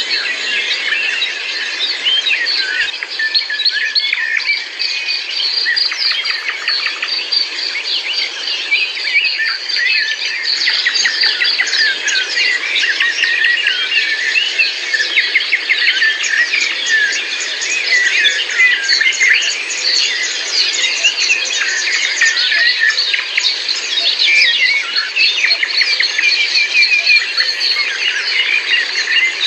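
A dense chorus of many songbirds singing and chirping at once, rapid overlapping calls, with a steady high insect trill beneath.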